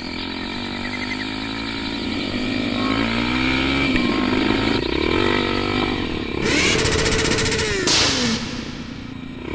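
Motorcycle engines running and revving, their pitch rising and falling, with a loud hiss for a second or two about two-thirds of the way in.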